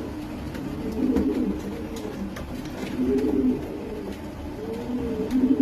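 Racing pigeon cooing: a low, rolling coo repeated about every two seconds.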